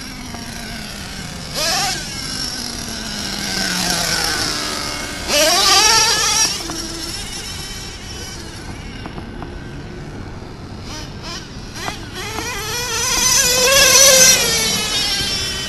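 Himoto MXT-2S 1/8-scale nitro monster truck's SH .21 engine with a tuned pipe, running with a high buzz and revving up and back down three times: briefly about two seconds in, harder about six seconds in, and longest and loudest near the end.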